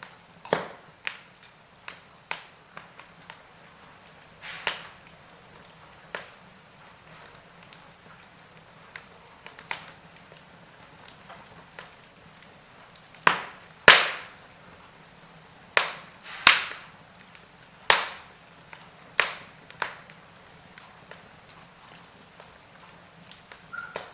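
Wood fire crackling in a fireplace: irregular sharp pops and snaps over a faint steady hiss, with a cluster of louder pops in the middle.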